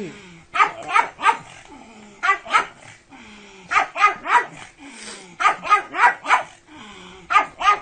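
A pug barking in quick bursts of two to four short barks, with brief pauses between the bursts.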